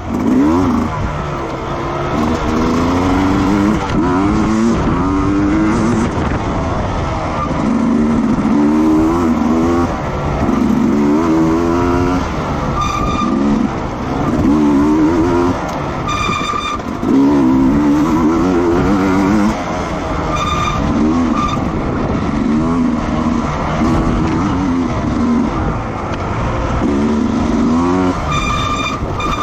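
Racing motorcycle engines revving hard as the bikes pass, the pitch climbing and dropping again and again with each gear change and corner. A short high-pitched beep sounds four times.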